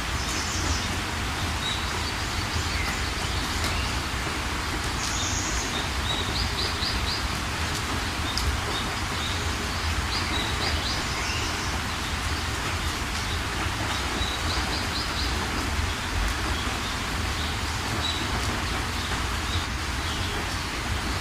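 Steady rain falling, with small birds chirping over it: short high chirps and quick trills of a few notes, recurring every few seconds.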